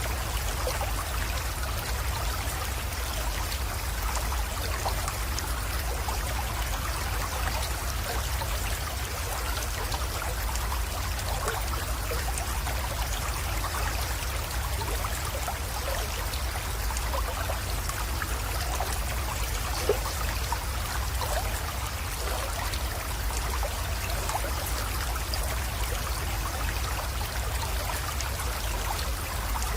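Small spring-fed creek flowing steadily, trickling and splashing, with a steady low rumble underneath and a single sharp drip or click about twenty seconds in.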